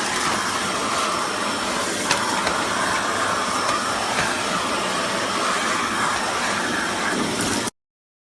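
Kärcher WD 6 wet and dry vacuum cleaner running with a steady rushing drone, one short click about two seconds in, until the sound cuts off abruptly near the end.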